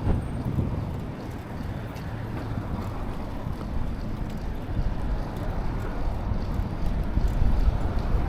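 Wind rushing over the microphone of a camera riding along on a moving bicycle: a steady low rumble, with city traffic mixed in, a little louder near the end.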